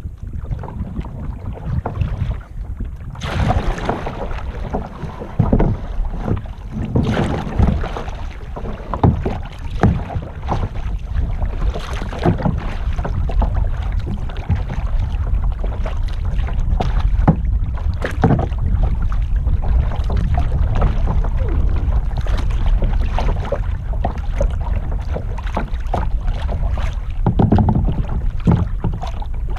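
Kayak paddle strokes splashing in the water, roughly every second or two, over a steady low rumble of wind on a GoPro microphone.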